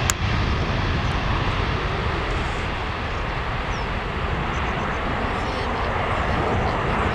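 Steady jet-engine roar of a departing KLM Airbus A330-200 twin-engine airliner. A single sharp click sounds right at the start.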